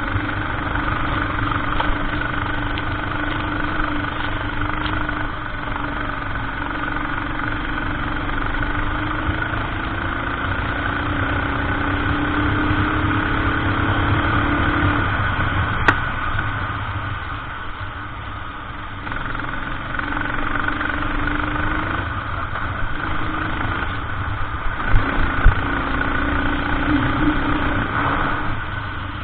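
Go-kart engine running under load through a lap, its note climbing slowly along the straights and dropping back when the throttle is lifted, with a clear lull about two-thirds through. A sharp click comes about halfway through, and a couple of knocks come near the end.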